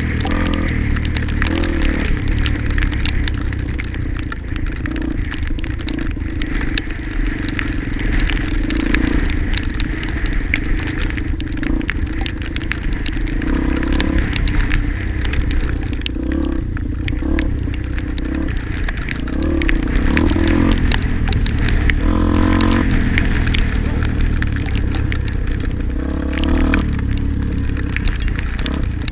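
Wind buffeting an action camera's microphone during a ride over rough ground, with a steady low rumble and constant small rattles and crackles from the trail, and a few faint snatches of voices.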